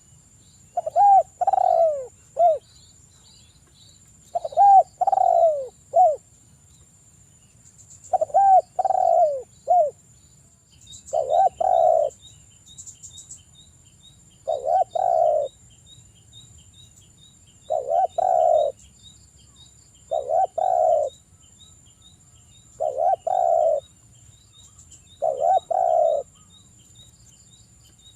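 Derkuku (spotted dove) cooing in short repeated phrases about every two and a half seconds, the early phrases of three or four notes and the later ones of two. From about eleven seconds in, a faint, even run of high chirps, several a second, goes on under the cooing.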